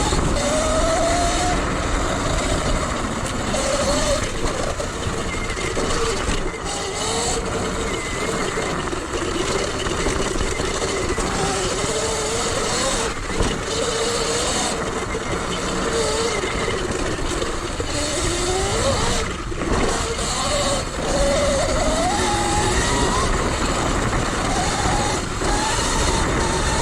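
Sur Ron Light Bee X electric dirt bike riding off-road: the electric motor's whine rises and falls in pitch with speed over a steady rushing noise.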